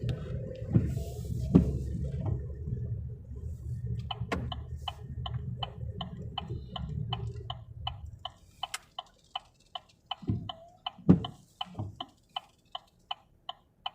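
Inside a car: a low rumble of road and engine that dies away about two-thirds of the way through, while a turn-signal indicator ticks steadily from about a third of the way in. A few low thumps come near the end.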